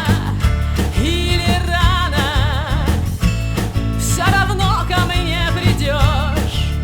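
A song: a singing voice with strong vibrato over guitar and a steady bass accompaniment.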